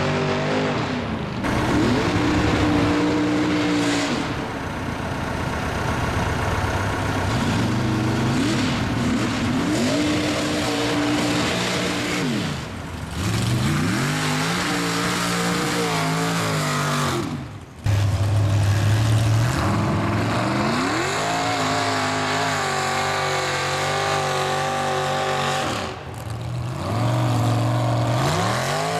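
Mud-bog truck engines revving hard, the pitch climbing and falling back again and again as the throttle is worked. The sound breaks off abruptly and resumes a few times, most sharply just before the middle.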